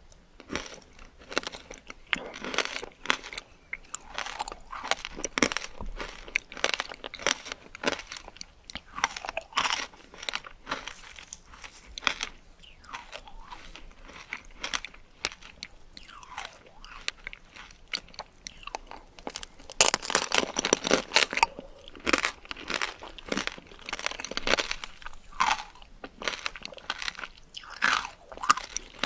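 Close-up crunching and chewing of candied fruit, the hard sugar coating cracking in many quick, irregular crackles. The densest, loudest burst of crunching comes about two-thirds of the way through.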